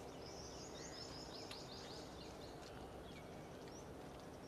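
A bird singing faintly: a run of about ten quick, high repeated notes, roughly four a second, over the first two and a half seconds, over a steady faint outdoor background.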